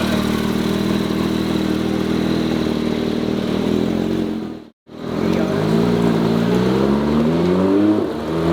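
Car engine running at a steady speed, then, after a short break, an engine rising in pitch as it accelerates.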